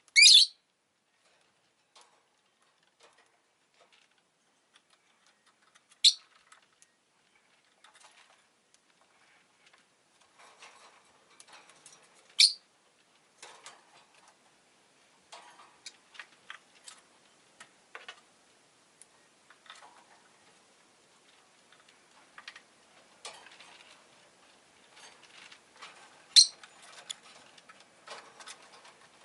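Rosy-faced lovebird giving four short, loud, shrill calls spread across the stretch, with faint irregular ticking and clicking in between.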